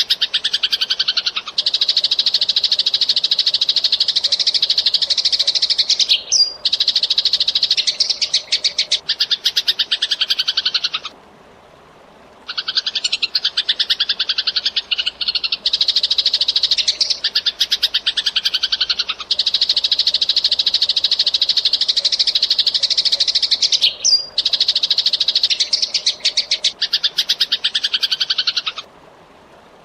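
Eurasian tree sparrows chirping in a fast, dense stream. It breaks off for about a second and a half near the middle and again near the end, and the same passage comes round again.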